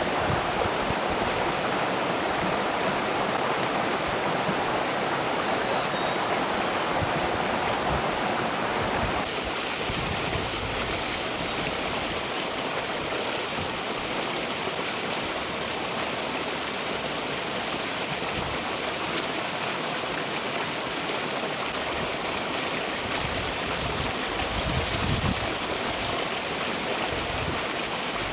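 Forest stream flowing, a steady rush of water that thins slightly about nine seconds in.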